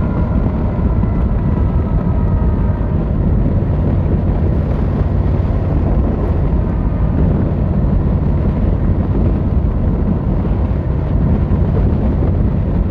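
Yamaha XVZ1300 Royal Star's V4 engine and exhaust running steadily under way, a dense low rumble mixed with wind noise on the microphone.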